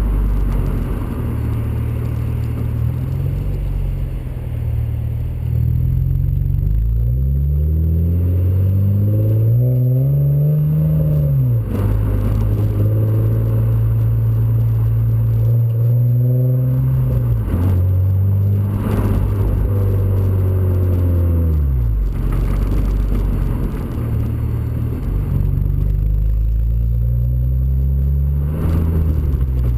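Honda Accord V6 (3.5-litre V6) exhaust through an aftermarket J-pipe and cat-back system. The engine note climbs in pitch under acceleration, drops sharply, then holds a steady drone for a few seconds. It falls and climbs again several times.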